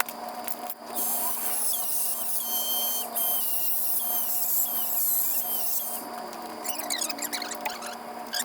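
High-speed rotary tool grinding into steel, a high whine whose pitch drops in steps as it bites under load. It starts about a second in, runs for about five seconds, then carries on more lightly toward the end.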